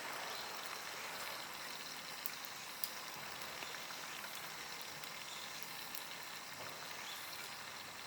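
Faint steady background hiss with a few scattered small clicks.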